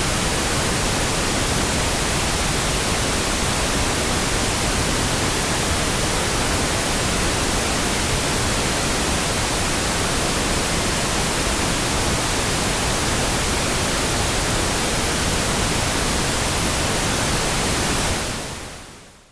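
Steady, even pink noise, fading out over the last second or so.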